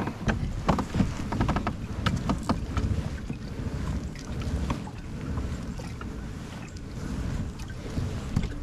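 Sounds of a kayak on the water, with wind rumbling on the microphone. A quick run of clicks and knocks comes in the first few seconds.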